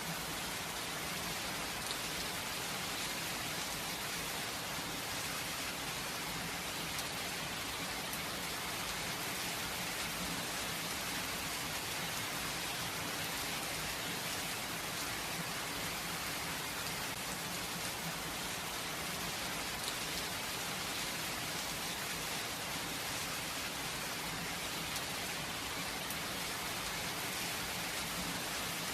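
Steady light rain falling, a constant even hiss with no thunder.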